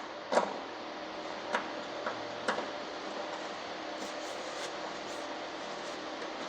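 A few light, sharp metal clicks and taps, spaced a second or so apart, as bolts and a socket on an extension are handled while the lawnmower's deck covers are bolted back on, over a steady background hum.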